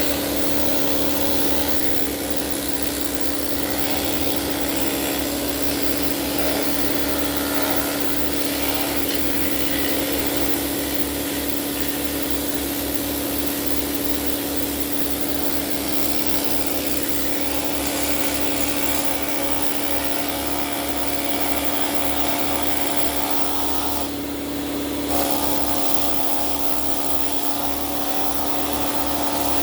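Pneumatic needle scaler chattering continuously against an LS engine block, knocking off grime and scale with a fast, steady buzz. It breaks briefly about three-quarters of the way through.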